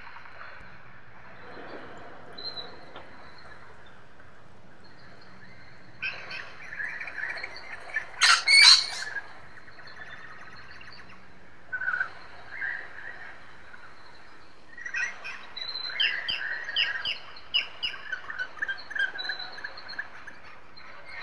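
Wild birds chirping and calling in short, scattered notes, with one loud harsh call about eight seconds in and busier chirping in the second half.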